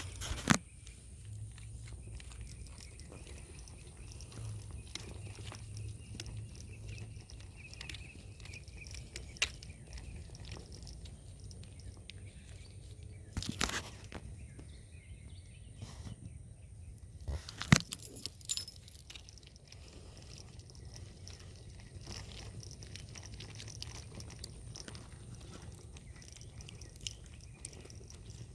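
Handheld-recorder noise on a walk: a steady low rumble on the microphone with faint scattered ticks and crunches, and a few sharp knocks, the loudest about 18 seconds in.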